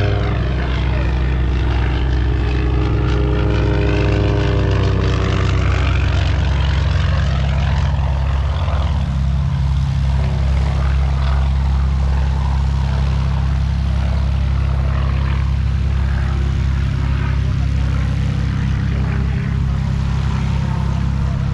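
Propeller airplane flying past, its engine note falling in pitch in the first few seconds, over a steady low engine drone.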